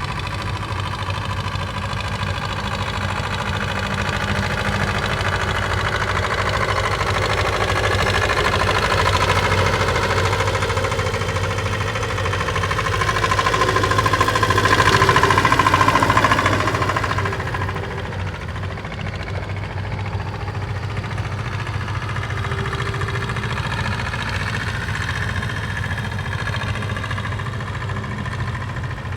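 Tractor engine running, growing louder toward the middle and then falling away suddenly a little past halfway.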